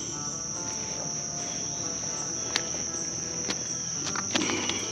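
Steady high-pitched insect chorus, a continuous trilling drone, with a few faint clicks.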